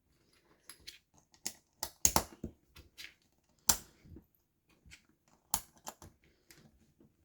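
Small plastic building bricks clicking and clattering as they are handled and pressed together: scattered sharp clicks, the loudest about two, three and a half, and five and a half seconds in.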